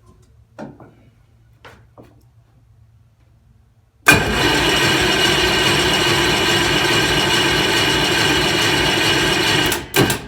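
A Detroit Diesel 6V53N two-stroke V6 diesel cranks on its starter during a cold start. The loud, steady cranking begins suddenly about four seconds in and runs for about six seconds, then cuts off. A short second crank comes right at the end, and a few faint clicks come before the first.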